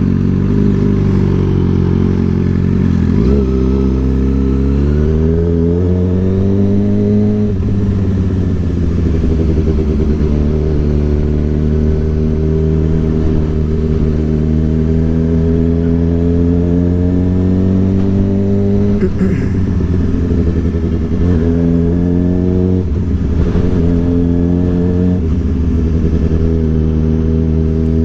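Suzuki GSX-R 600's inline-four engine under way: it climbs in pitch for a few seconds early on, then holds a steady cruising note. Over the last third the pitch dips and rises briefly several times.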